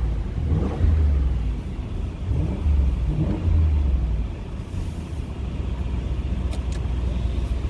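2020 Audi SQ7's 4.0-litre twin-turbo V8 in dynamic mode, revved in three quick blips in the first four seconds, then settling to a steady idle. Heard through an open window.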